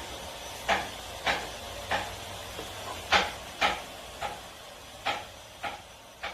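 A series of short, sharp clicks or taps, about ten in all at irregular intervals of roughly half a second to a second, over a steady hiss.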